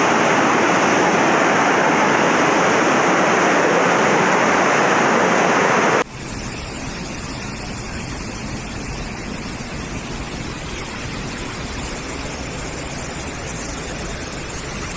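Loud, steady rushing water with no distinct events. About six seconds in it cuts abruptly to a quieter, steady water noise from a different recording.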